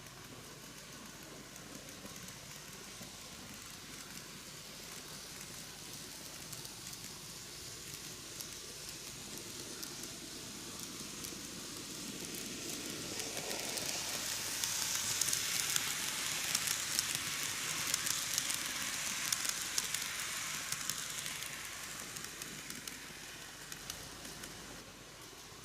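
N-gauge model train, a KATO C11 steam locomotive pulling Oha 35 coaches, running on its track. The wheels and running gear make a fine crackling rattle that grows louder as the train passes close about halfway through, then fades away.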